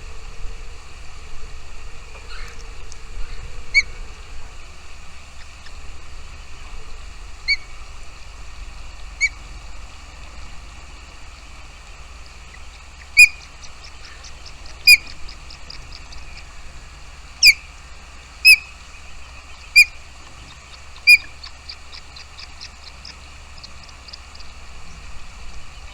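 A bird giving single short, sharp call notes, spaced a second or two apart and loudest in the second half, with faint rapid high cheeping between them; a steady low rumble underneath.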